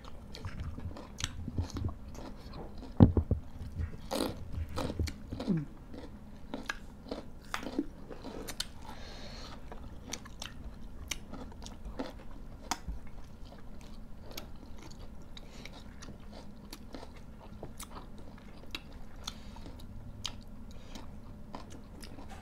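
People eating with their hands close to the microphone: chewing, biting and crunching food, with many small sharp clicks of the mouth and food, busiest and loudest in the first six seconds.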